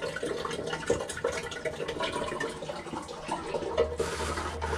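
Water running in a small room, with many small knocks and clatters of handling; a stronger hiss with a low hum comes in about four seconds in.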